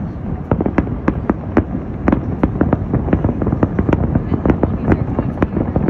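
Fireworks bursting in a dense barrage: many sharp bangs and crackles, several a second, over a continuous low rumble.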